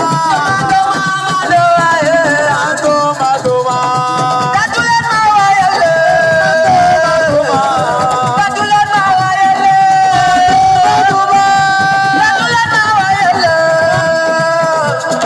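Assiko band music: a lead melody of long held notes that slide from one pitch to the next, over busy percussion.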